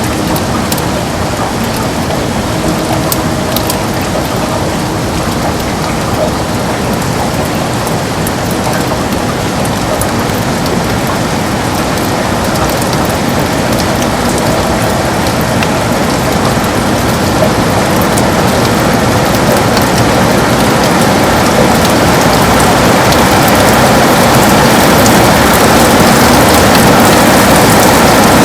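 Heavy rain on a window: a dense, steady rush of rain with scattered sharp taps of single drops, growing gradually louder from about halfway through.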